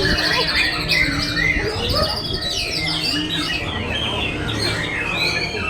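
A songbird singing a long, varied song of rapid chirps, sweeping whistles and buzzy trills without a break.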